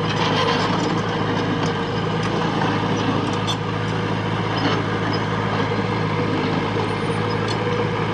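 Diesel engine of heavy earthmoving machinery running steadily at a constant speed, with a few faint light knocks over it.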